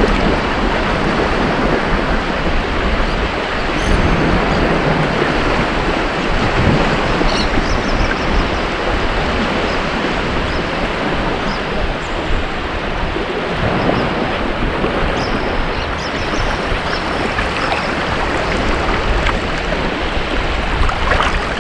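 Ocean surf washing onto a beach: a steady roar of breaking waves that swells and eases gently, with a few faint high splashes on top.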